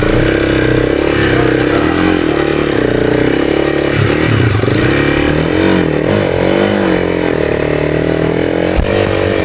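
Honda CRF300's single-cylinder four-stroke engine running at low speed, its revs rising and falling again and again as the dirt bike is ridden and turned around.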